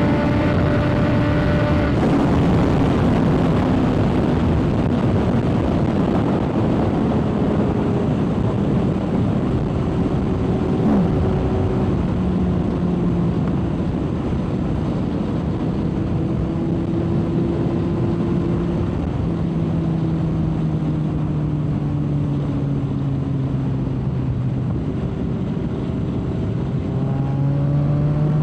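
Motorcycle engine running at road speed under heavy wind rush on the helmet-camera microphone. The engine pitch eases down slowly, holds, then rises again near the end.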